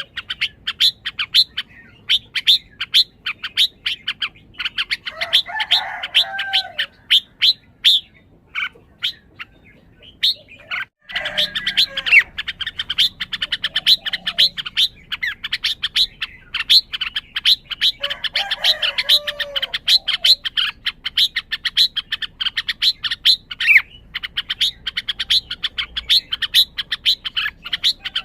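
Red-whiskered bulbul calling: a fast, steady run of short sharp chirps, three or four a second. Lower warbled song phrases break in a few times, with a brief lull about a third of the way through.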